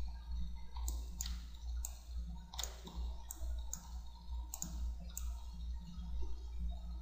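Computer mouse clicking, about seven separate clicks at irregular spacing, over a steady low hum.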